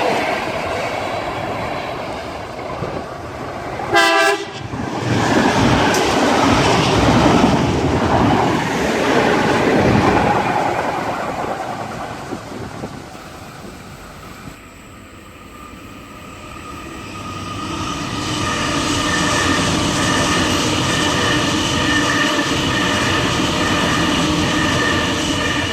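Train passing at high speed, a loud rush of wheel and air noise, with a short horn blast about four seconds in. The noise dies away, then another train comes up, a steady whine of several tones over the rumble of the wheels.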